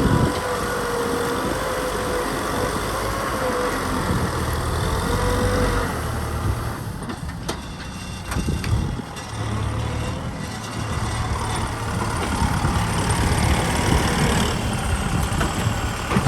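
Kubota M6040 tractor's four-cylinder diesel engine running, with a wavering whine over the engine note; the level dips about halfway through and builds back up toward the end.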